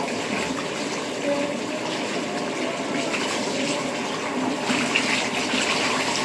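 Tap water running and splashing while soap is rinsed off a dog in a bath, a steady rush that grows brighter about five seconds in.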